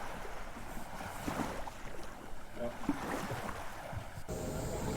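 Water rushing and splashing along a sailboat's hull under way, with wind buffeting the microphone. The background changes abruptly about four seconds in.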